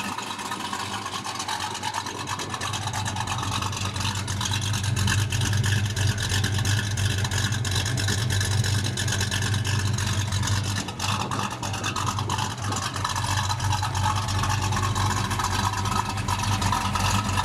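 1968 Pontiac GTO's 467 stroker V8 with a RAIV cam idling steadily through its exhaust, freshly started after standing for a while.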